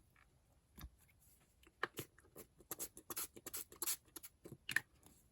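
Paintbrush dabbing and scrubbing wet paint onto a paper page: a faint run of quick, irregular light taps and scratches.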